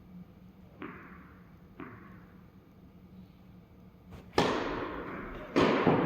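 Tennis ball impacts: two faint knocks about a second apart, then two loud ones in the last two seconds, each followed by a long fading echo.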